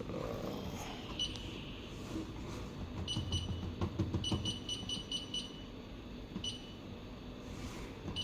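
Fisher & Paykel washing machine control panel beeping as its buttons are pressed to set a spin test: single short beeps and a quick run of about seven in the middle. A low rumble swells underneath partway through.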